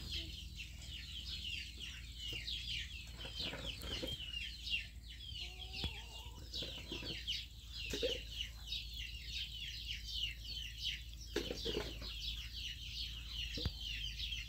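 Many birds cheeping constantly in a dense stream of quick, high, falling chirps, with a few lower calls now and then.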